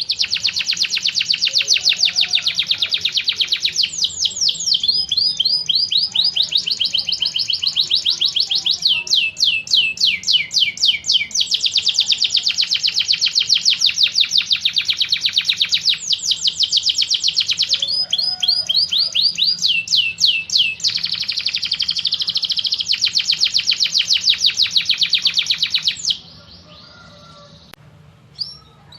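Loud, continuous bird song of fast, evenly repeated sweeping notes, changing phrase every few seconds. It comes from a masteran tutor recording that mixes tengkek buto, cililin and canary songs, and it stops about 26 seconds in.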